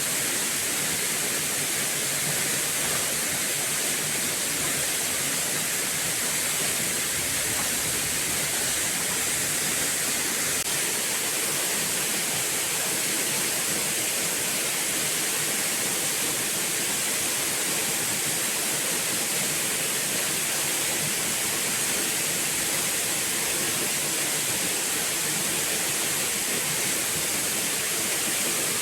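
Steady, even rush of falling water, a continuous hiss-like roar that does not change.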